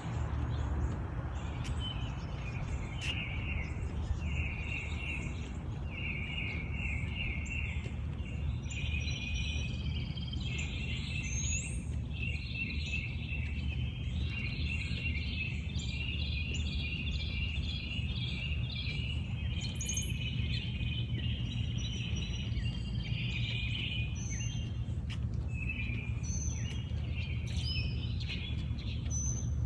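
Songbirds singing: runs of short, quickly repeated chirping notes and phrases, one after another, with a few higher notes above them. A steady low rumble lies underneath.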